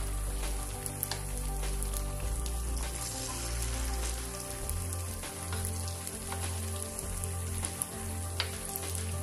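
Batter-coated banana slices deep-frying in hot oil: a steady sizzle with scattered crackles and pops. Background music with a low bass line plays underneath.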